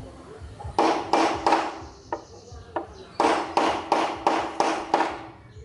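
Hammer blows struck in a steady rhythm, about three a second: a run of three strikes about a second in, then a run of six.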